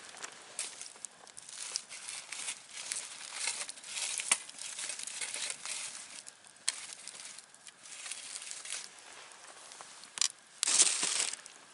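Campfire crackling and snapping, with a louder rustle lasting under a second near the end.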